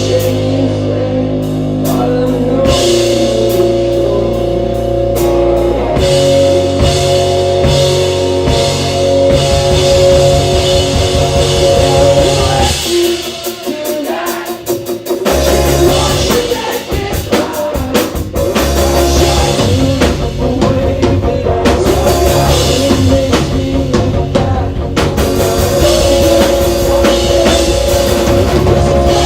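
Live rock band playing loudly: distorted electric guitars, bass and drum kit. About thirteen seconds in the bass and drums drop out for a couple of seconds, leaving the guitars, then the full band comes back in.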